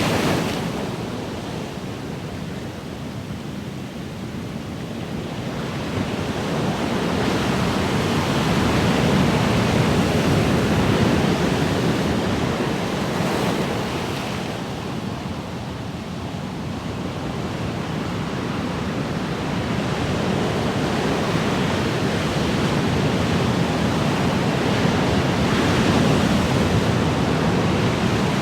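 Ocean waves breaking and washing on the shore in a steady rush of surf, swelling and ebbing slowly with two long surges.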